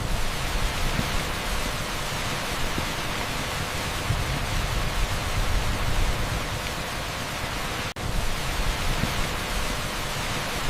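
Torrential rain pouring on an asphalt street: a dense, steady hiss with a low rumble beneath it. The sound drops out for an instant about eight seconds in, then resumes unchanged.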